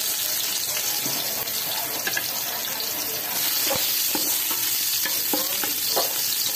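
Ginger strips sizzling steadily in hot oil in an aluminium stockpot. From about a second and a half in, a wooden spatula stirring them scrapes and taps against the pot.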